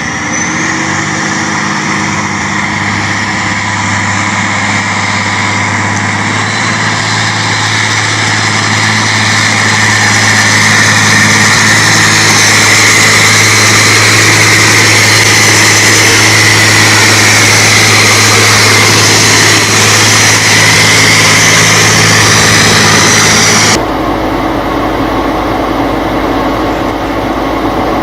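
Off-road truck's engine running steadily under load, growing louder about ten seconds in. Near the end it cuts off abruptly to a different, lower engine hum.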